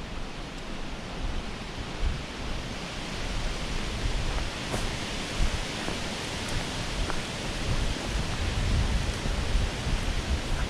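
Steady rushing of flowing water, with wind buffeting the microphone in a low, uneven rumble and a few faint ticks.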